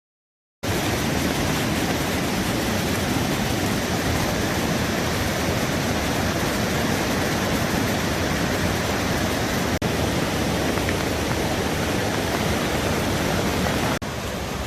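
Floodwater rushing, a loud steady wash of noise with no rhythm, breaking off briefly about ten seconds in and dropping in level near the end.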